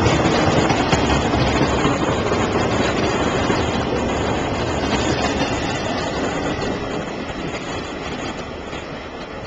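Union Pacific freight train of empty flatcars rolling past on the rails, a steady rumbling rush that fades away over the last few seconds.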